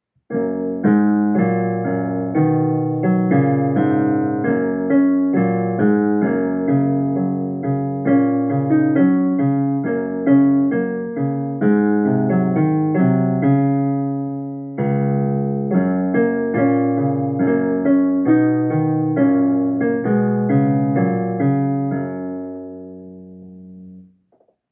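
Piano playing a short solo piece: a steady run of struck notes and chords. It ends on a held chord that fades out and stops just before the end.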